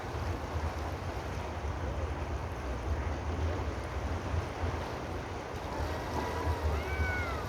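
Steady rushing outdoor noise with a deep low rumble, and a few short whistled chirps that rise and fall near the end.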